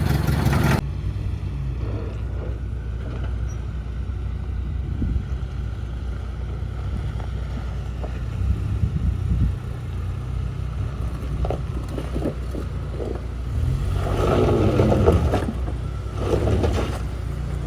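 1929 Ford Model A's four-cylinder engine running with a steady low rumble as the car crawls over a rough trail, with a sudden drop in level just under a second in and a louder stretch near the end.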